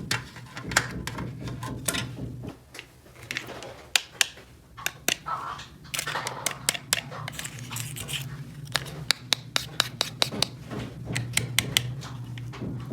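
Small plastic toy-kitchen pieces being handled: many sharp clicks and taps with some scraping and rubbing, over a steady low hum.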